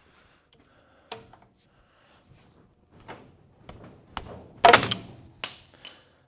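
Metal parts and hand tools knocking and clanking in a run of separate hits while a GM 12-bolt rear axle is taken apart. The loudest clatter comes a little past the middle, with a sharp knock about a second in and another soon after the loudest clatter.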